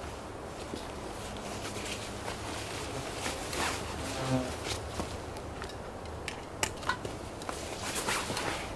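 An insect buzzing briefly about halfway through, among scattered small clicks and rustles.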